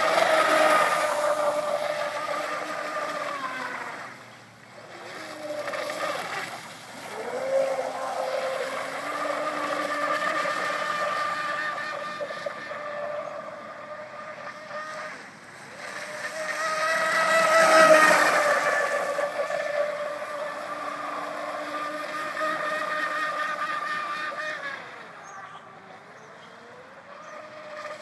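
Pro Boat Miss Geico RC catamaran's electric motor whining as the boat runs on the water, the pitch rising and falling with throttle. It grows loud twice as the boat comes close, at the start and about two-thirds of the way through, and near the end the pitch drops and climbs again.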